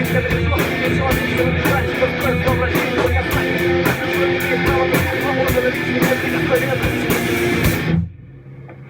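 Metal band playing with electric guitars and drums, with steady drum and cymbal hits. The music cuts off suddenly about eight seconds in, leaving a faint fading ring.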